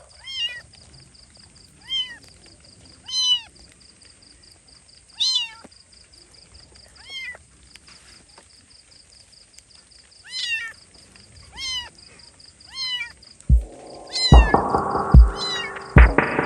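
Kitten meowing over and over, about ten short high-pitched cries spaced one to two seconds apart. Near the end, music with heavy beats comes in over the cries.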